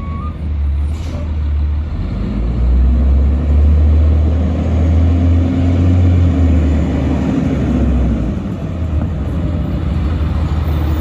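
Autocar side-load garbage truck's diesel engine running with a heavy low rumble that builds up a few seconds in and then eases off. Its reversing alarm beeps stop right at the start.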